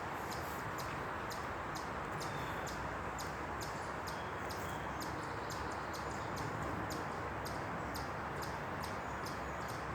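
Many short, faint, high-pitched peeps or chirps coming irregularly, several a second, which the listener takes for baby ducks, over a steady outdoor rushing background.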